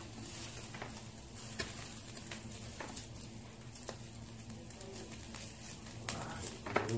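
Faint, scattered crackles and pops from a lit downdraft wood-burning stove with pork belly grilling on it, over a low steady hum.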